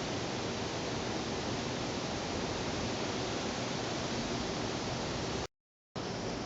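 Steady, even hiss-like background noise, broken by half a second of dead silence about five and a half seconds in at a cut between clips.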